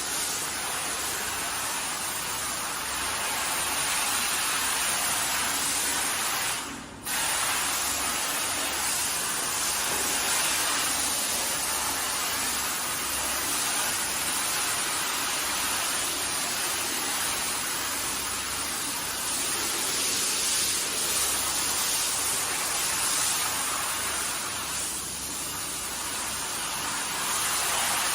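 Hand-held car wash sprayer jetting water onto a carpet: a steady spraying hiss that fades and stops for a moment about seven seconds in, then starts again at once.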